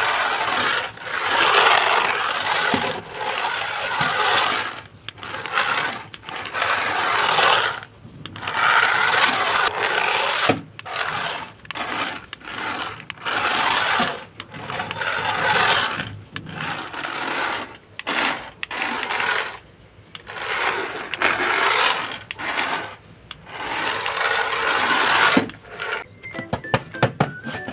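Packaging being handled and opened: rustling and scraping of plastic and cardboard in repeated bursts of one to three seconds, with short pauses between them.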